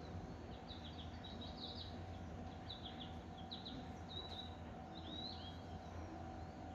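Birds chirping in short, repeated high calls over the steady hum of a Seibu 4000 series electric train standing at the platform.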